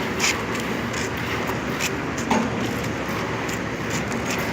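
Steady mechanical noise with a few short sharp clicks.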